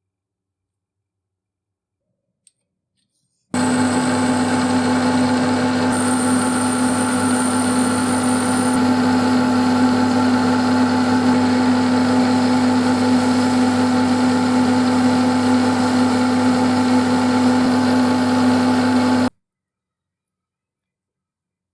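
An electric power tool motor running steadily with a constant hum and a high whine. It starts suddenly about three and a half seconds in and cuts off abruptly near the end.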